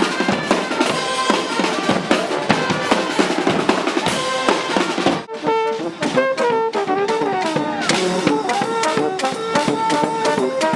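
Street brass band playing: a busy drum beat with horns over it. About five seconds in there is a brief break, and then the horns take up a held melody over the drums.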